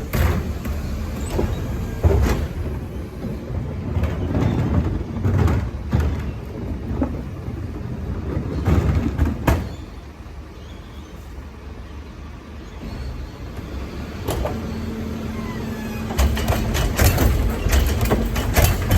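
Garbage truck running, with a low engine rumble and several sharp knocks and clanks. It drops quieter in the middle and grows louder again near the end.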